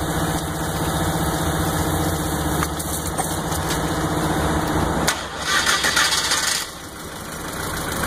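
4x4 engine idling steadily with its ignition waterproofed, kept running while a hose plays water over the ignition. About five seconds in a loud hissing burst covers the engine note for a second or two.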